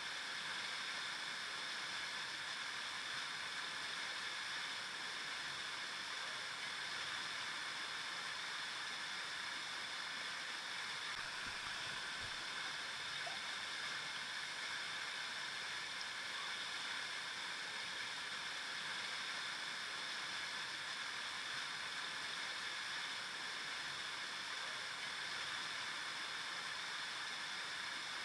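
River water flowing over rocks with a steady, even rushing, its sound mostly in the upper middle range and without pauses.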